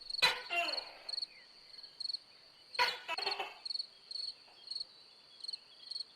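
An insect chirping in short, high-pitched pulses, about two a second, like a cricket. Two sharp clicks, one near the start and one a little under three seconds in, are each followed by brief faint calls.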